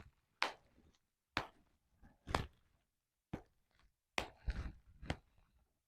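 Bubble wrap being popped one bubble at a time, about one sharp pop a second, with soft crinkling of the plastic between some pops.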